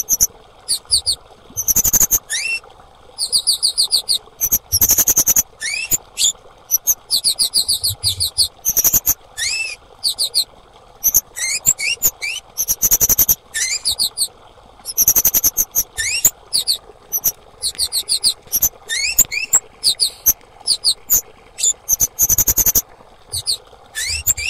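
Female kemade calling: short clusters of quick, high, rising chirps, repeated about once a second over a faint steady hiss.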